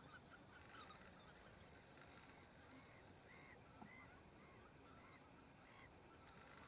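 Faint bird calls: a run of short, evenly spaced calls at about two a second, over a steady background hiss.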